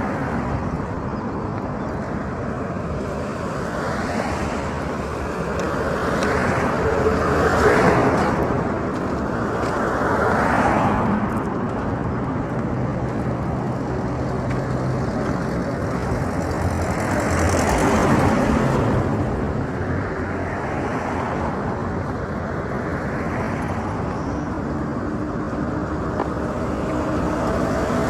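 Road traffic: a steady noise of passing vehicles, swelling louder three times as vehicles go by close.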